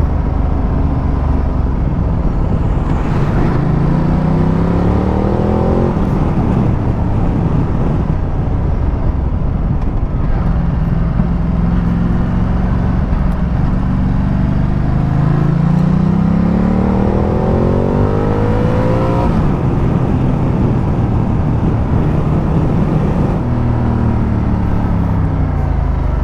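Ducati Multistrada 1200's V-twin engine under way, with wind rushing past. The rider accelerates twice, the engine note rising, about 3 seconds in and again from about 14 to 19 seconds in, then the note falls as the bike slows near the end.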